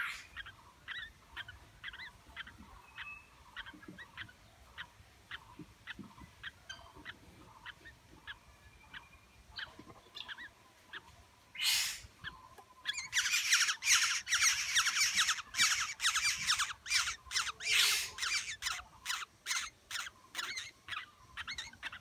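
Birds calling. Faint short calls come about twice a second, then after about twelve seconds a loud, rapid run of harsh calls, several a second, takes over.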